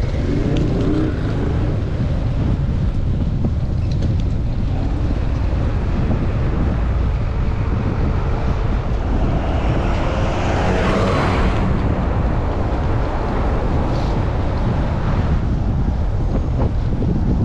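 Strong wind buffeting the microphone of a camera worn by a moving cyclist: a loud, steady low rumble. Around ten seconds in, a brief swell of higher hiss with a faint tone rises over it and passes.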